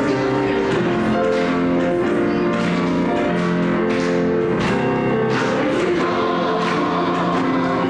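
Voices singing a church hymn together, holding long notes.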